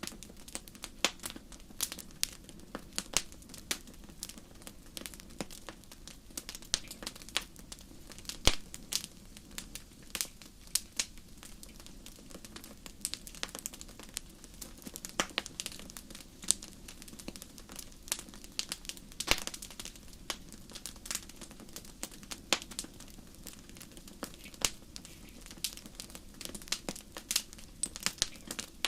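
Wood fire burning in a fireplace, crackling with frequent sharp, irregular pops over a soft steady hiss.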